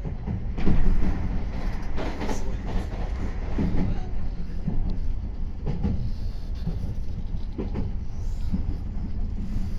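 Meitetsu 3500 series electric train running along the line, heard from inside the car: a steady low rumble of wheels on rails with irregular knocks and thuds, the loudest about a second in.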